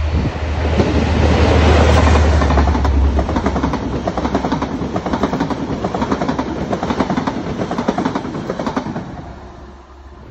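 Diesel train passing close by: a heavy low engine rumble as the locomotive goes by in the first few seconds, then a rapid clickety-clack of wheels over rail joints as the carriages follow, fading away near the end.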